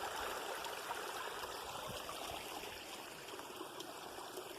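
Moorland stream running over a low-flowing waterfall: a steady rushing babble of water that eases slightly toward the end.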